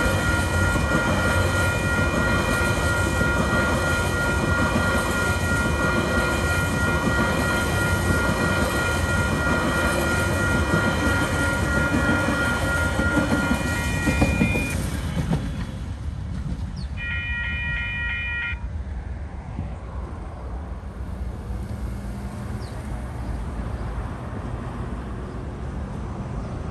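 Empty container flat wagons of a freight train rolling over a level crossing, wheels rumbling and clicking on the rails, with the crossing's warning bell ringing steadily over it. The bell and the wheel noise drop away about 15 seconds in as the last wagon clears. A short choppy burst of the same ringing tones comes a couple of seconds later, then only a low steady background remains.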